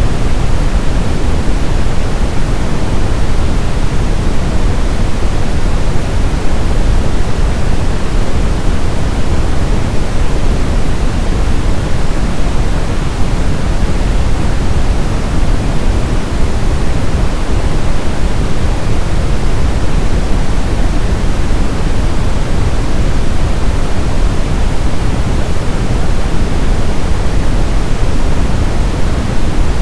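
Synthetic brown (Brownian, red) noise: a steady, even rushing hiss whose energy is heaviest in the deep lows and thins out toward the highs.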